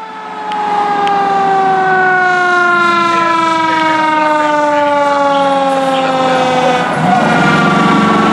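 Fire engine siren sliding slowly and steadily down in pitch for about seven seconds. Near the end a lower, steadier tone from the truck takes over.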